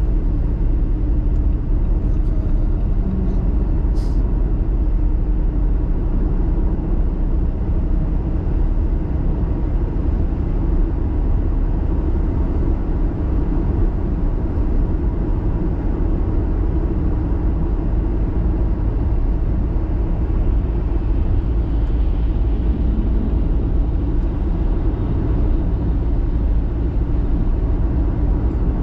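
Car driving on snowy roads: a steady low rumble of engine and tyre noise that holds an even level throughout.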